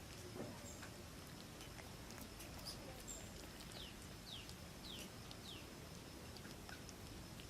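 A bird calling in a quiet forest: four short, high whistles, each falling in pitch, about half a second apart, over a faint background with scattered small clicks.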